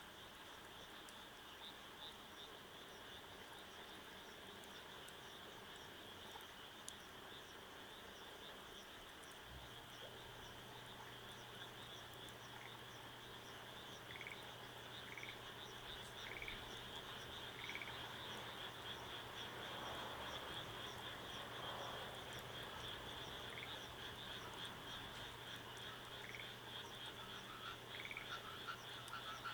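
Frogs calling in a chorus: a high, fast-pulsing trill that runs steadily, with short calls repeating about once a second in the second half. A low steady hum joins about ten seconds in.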